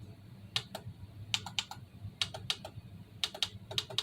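Buttons on a Competition Electronics Pocket Pro II shot timer being pressed to step through its settings menu. The clicks are crisp and come in quick runs of two to four, about once a second.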